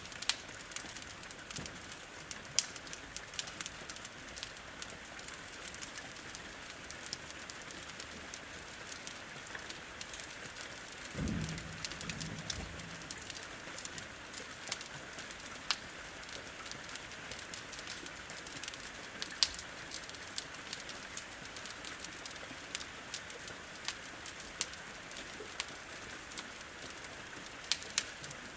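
Steady rain pattering on a window, with frequent sharp crackles and pops from a wood fire. A short, low pitched call sounds about eleven seconds in.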